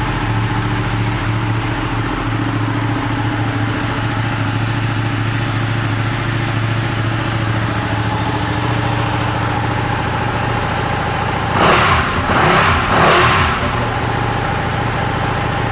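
2016 Ducati Panigale 959's Superquadro V-twin engine idling steadily, with a few brief louder bursts about twelve seconds in.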